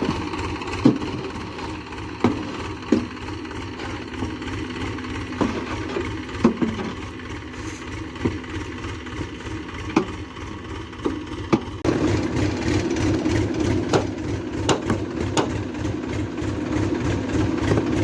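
Massey Ferguson 7250 tractor's diesel engine running steadily with a pulsing low beat, under the load of a loaded trolley, with scattered sharp knocks and clunks. About twelve seconds in it gets abruptly louder.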